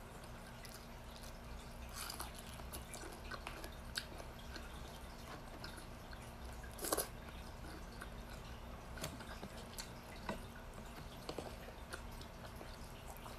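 A person eating with her fingers: quiet chewing and mouth smacks with scattered short clicks, the loudest about seven seconds in, over a low steady hum.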